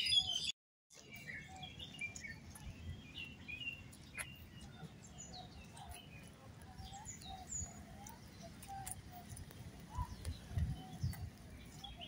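Small birds chirping and calling, louder at the very start, then fainter and scattered, over a low background rumble. The sound cuts out completely for a moment about half a second in.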